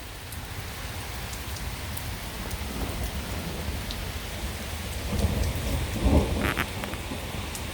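Steady rain falling with scattered drop clicks, and a rumble of thunder that swells about five seconds in and is loudest around six seconds.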